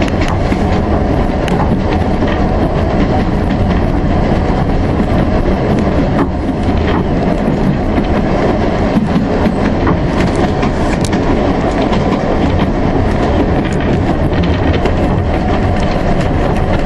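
A narrow-gauge steam railway carriage running along the track: a steady loud rumble and rattle, with irregular wheel clicks over the rail joints.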